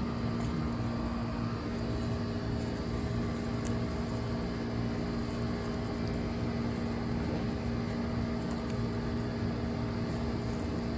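A steady mechanical hum with one constant low tone and fainter higher tones over it, unchanging throughout.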